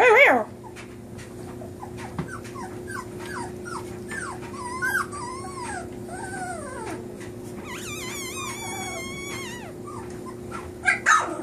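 Puppies whimpering and crying for their absent mother: a run of short, high, downward-sliding squeals, several at once about eight seconds in, with louder yelps at the start and near the end.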